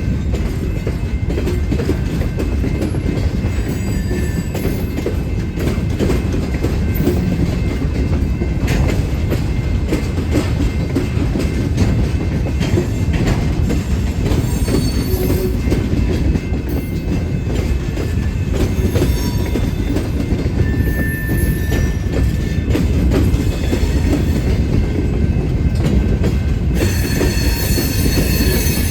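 Railroad train rolling past: a steady low rumble of cars with repeated clacks of wheels over the rail. Near the end, a high-pitched squeal of wheels on rail sets in.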